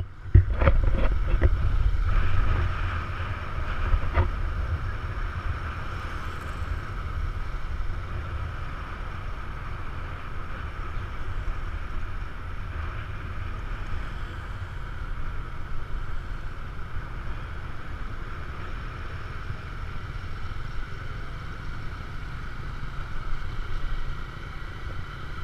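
Wind buffeting the microphone over a steady wash of street traffic noise, with a few sharp clicks in the first seconds.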